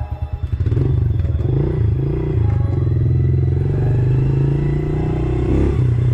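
Dirt bike engine putting at idle in an even pulse, then revving up about a second in and running on under throttle, its pitch rising and falling as the bike rides off.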